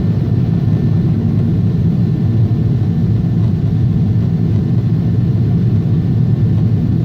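Steady low rumble of a Boeing 777 airliner heard from inside the passenger cabin: engine and airflow noise with no distinct events.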